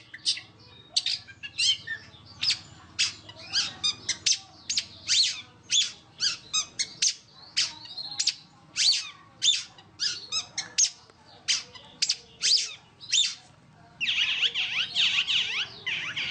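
Long-tailed shrike (cendet) singing: a rapid string of sharp, high chips and squawks, several a second, breaking about fourteen seconds in into a dense, fast continuous warble, the tight 'roll' song that bird keepers prize.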